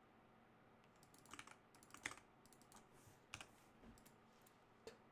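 Faint typing on a computer keyboard: scattered keystrokes in short clusters, starting about a second in.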